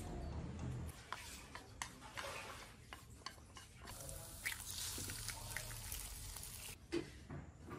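Kitchen work sounds: scattered light clicks and taps, with a stretch of hissing, watery noise from about four seconds in to nearly seven seconds, and a sharper knock just before the end.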